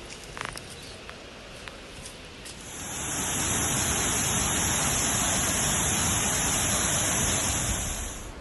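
Waterfall: a steady rush of falling water that swells in about two and a half seconds in and holds loud and even, with a strong high hiss on top, then cuts off abruptly at the very end.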